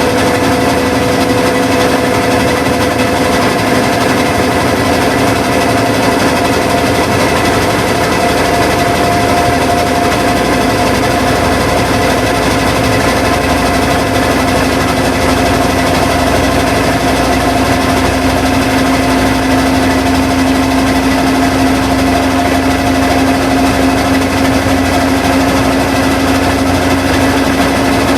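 Washing machine running, a loud steady mechanical hum whose pitch creeps slowly upward.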